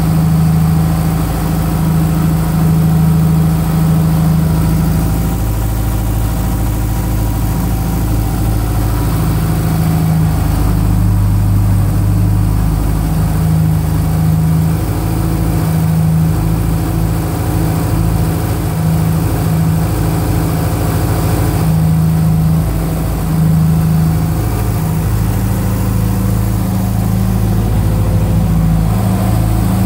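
The freshly rebuilt 2.5-litre turbocharged flat-four of a 2005 Subaru STI, with new forged pistons and rods, idling on its first run. The idle is steady overall but shifts up and down in pitch every few seconds.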